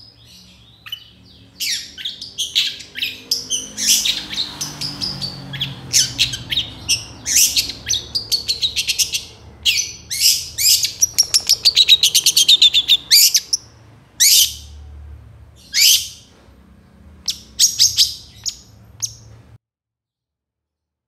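Long-tailed shrike (cendet) singing a loud, varied song of sharp high notes and quick phrases, packed with mimicked fills, with a fast rattling run about halfway through. It stops abruptly near the end.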